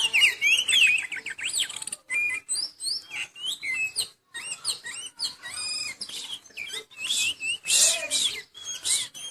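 Oriental magpie-robin (kacer) singing hard while in moult: a fast, varied run of sweeping whistled notes and chirps, broken by short pauses about two and four seconds in.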